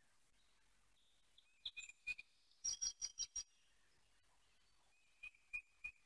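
Faint bird chirps in short groups: a few about two seconds in, a quicker run of about five a moment later, and three more near the end.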